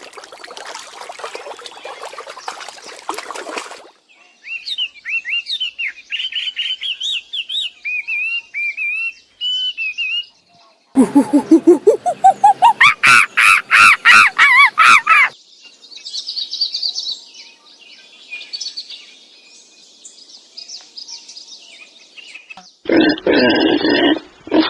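Birds chirping in short repeated calls, across several cut-together clips, with a loud call that rises steeply in pitch near the middle and a pair of loud low animal calls near the end.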